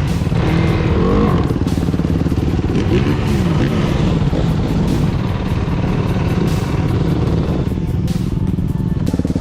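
Dirt bike engine running under way, its pitch rising and falling a few times.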